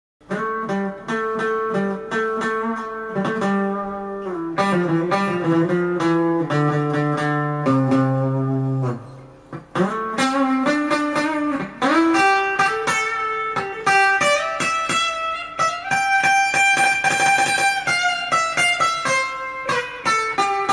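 Guitar music: plucked notes picking out a melody over lower held notes, briefly dropping away about nine seconds in before carrying on.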